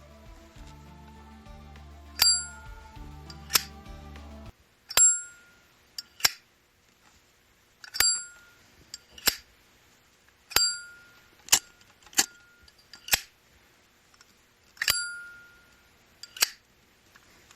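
Solid brass Zippo lighter lid snapped open with the metallic ring of its hinge and cam, then clicked shut about a second later, six times over. Background music plays for the first few seconds, then stops.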